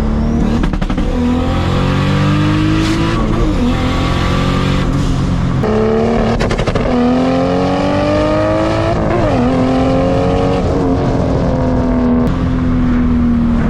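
Turbocharged Toyota Supra MK4 inline-six on a 4-inch exhaust, accelerating hard with rolling anti-lag popping and crackling. The engine note climbs and drops sharply twice as it shifts, about six and nine seconds in.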